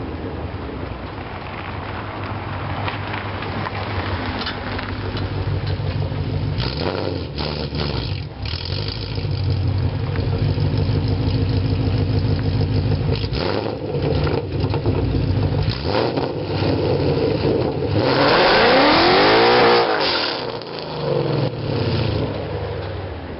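2017 Mustang GT's 5.0-litre V8 running through BBK headers and a 3-inch MBRP cat-back exhaust, a steady exhaust rumble. About eighteen seconds in comes a loud surge whose pitch rises and falls, the loudest part.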